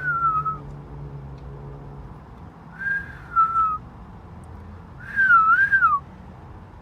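Yellow-naped amazon parrot whistling three short phrases about two and a half seconds apart. First comes a single falling note, then a two-note high-low whistle, then a longer note that wavers up and down before dropping.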